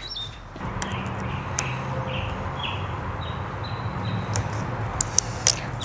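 A steady low mechanical hum starts about half a second in and carries on, with a few light clicks and short high chirps over it.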